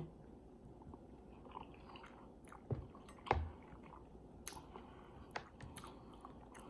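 A person chewing a mouthful of rice, sausage and cucumber close to the microphone: faint wet mouth clicks and smacks, with two louder bites near the middle.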